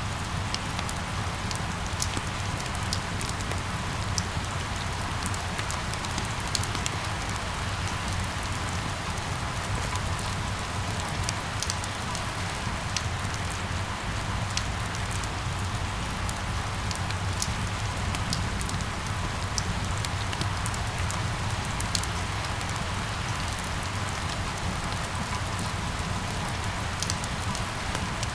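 Steady rain falling, with many sharp individual drips and drop ticks scattered through it over a constant low rumble.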